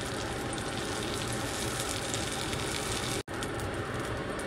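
Hot oil sizzling steadily in a frying pan around a frying eggplant-and-egg omelette, broken by a split-second gap about three seconds in.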